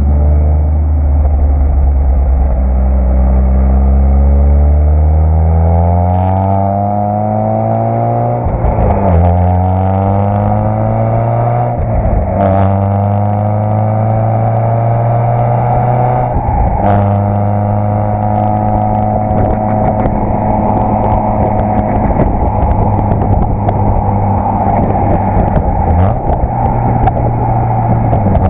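Citroën Saxo VTS 1.6-litre 16-valve four-cylinder engine on its stock exhaust, accelerating through the gears. Its pitch climbs, drops at upshifts about nine, twelve and seventeen seconds in, then holds steady as the car cruises.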